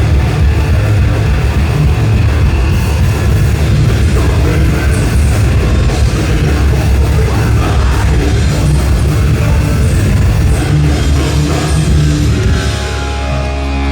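Thrash metal band playing live, with distorted electric guitars and a pounding drum kit. Near the end the dense playing stops and steady held tones ring on.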